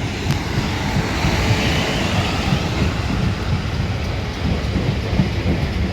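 Class 450 Desiro electric multiple unit running along the platform, with a steady heavy rumble of wheels on rail and a stream of small knocks.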